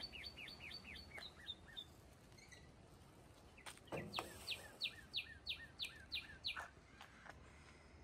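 A songbird singing runs of repeated falling whistled notes, about three a second: one run fades out in the first two seconds, and another starts about four seconds in and lasts a couple of seconds. A few soft clicks come just before the second run.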